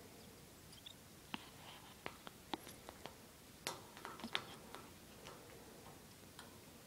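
Faint scattered clicks and taps from a pet parrot, with a cluster of sharper ones in the middle.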